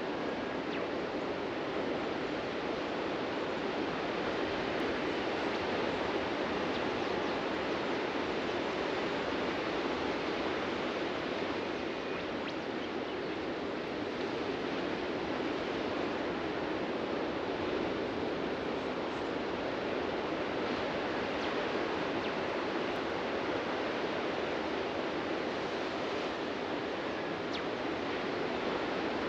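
Ocean surf breaking on a beach: a steady wash of waves that swells and eases only slightly.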